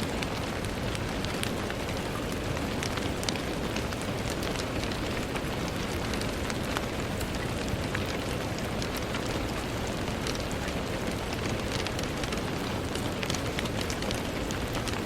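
Steady rain, with scattered individual drops tapping on window glass.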